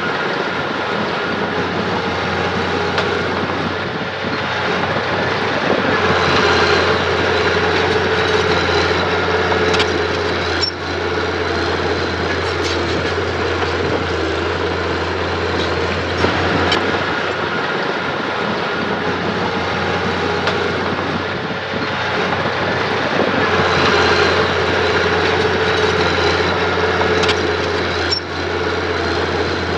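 Diesel engine of a mini bulldozer running steadily at work, its note swelling twice and easing off again, with occasional sharp metallic clanks.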